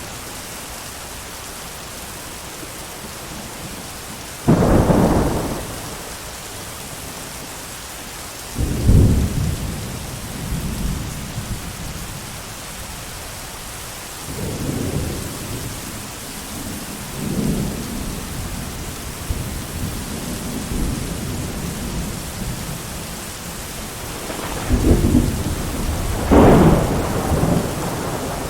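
Steady heavy rain with repeated peals of thunder. A sudden crack starts one about four and a half seconds in, several rolling rumbles follow, and a loud double peal comes near the end.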